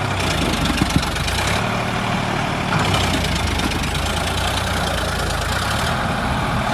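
Sonalika 745 DI tractor's diesel engine running steadily, growing briefly louder and harsher about two seconds in.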